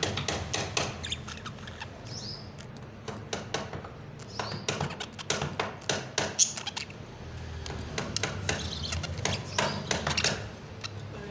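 Parrots chirping and squeaking, with many short sharp clicks and a few brief high chirps.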